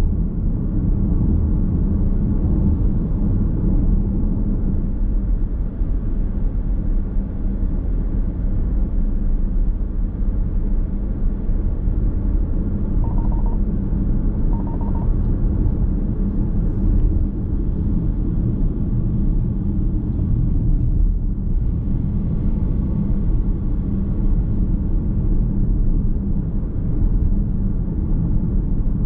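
Steady road and tyre rumble inside a moving car's cabin, heard while driving at a constant pace. Two short, faint beeps sound about halfway through.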